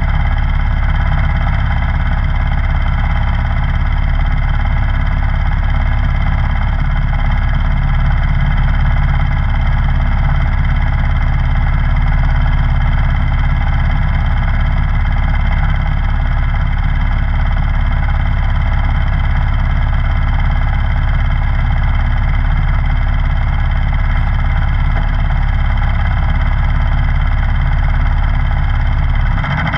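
Snowblower engine running steadily at a constant speed, loud, with a deep hum and an even mechanical drone.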